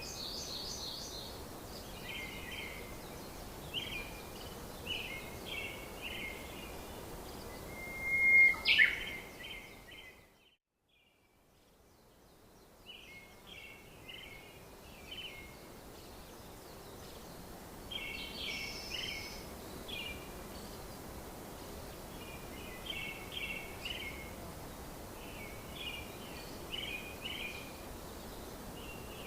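Wild birds chirping in short, repeated phrases over a steady outdoor hiss, with one louder, sharper call about eight seconds in. The sound fades almost to nothing for a couple of seconds shortly after, then the chirping returns.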